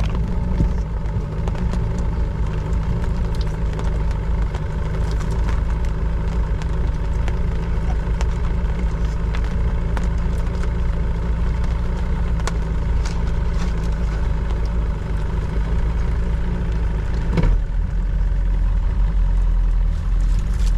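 Boat motor running steadily under way. About three-quarters of the way through there is a knock, and the low rumble grows louder.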